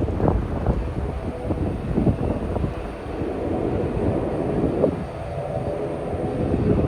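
Aircraft engine rumble, with wind buffeting the microphone; faint steady engine tones come in about halfway through.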